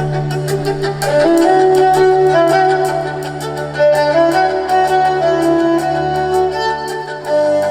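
Live band playing an instrumental passage: a melody of long held notes over a steady bass, with a regular beat of light percussion.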